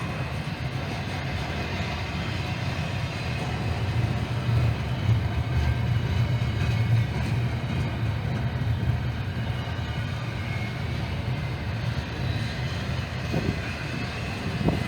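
Norfolk Southern freight train rolling past with a steady low rumble that swells for a few seconds partway through.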